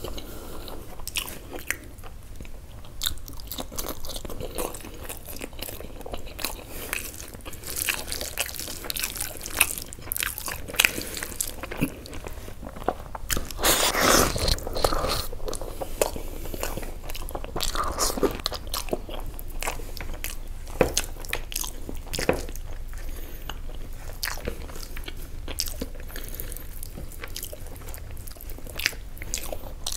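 Chewing and wet mouth sounds of a man eating rice and mutton liver curry by hand, with irregular small clicks and smacks throughout. The sound grows louder and denser about halfway through, as a handful of rice is pushed into his mouth.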